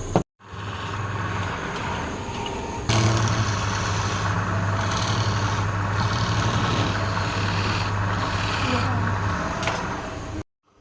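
Wood lathe running with a steady hum while a turning tool cuts the spinning wood, the cutting getting louder about three seconds in. The sound drops out briefly just after the start and again near the end.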